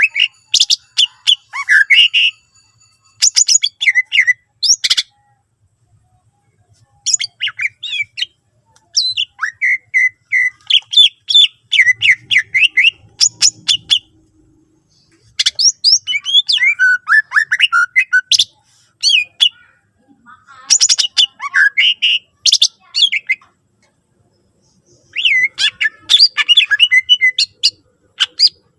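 Green leafbird (cucak ijo) singing: loud bursts of rapid, sharply sweeping high notes in phrases of several seconds, broken by short pauses. The song is a 'full isian' performance that mixes in phrases copied from other birds.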